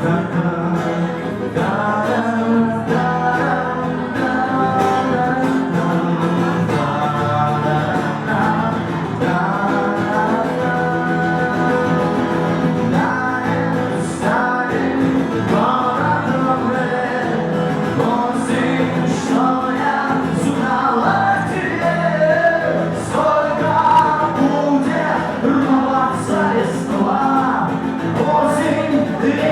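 A song performed live: singing over guitar accompaniment.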